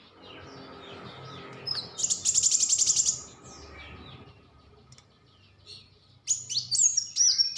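Songbird singing: a rapid high trill of about a dozen notes a second lasting about a second, then a run of sharp, loud whistled notes that sweep downward near the end.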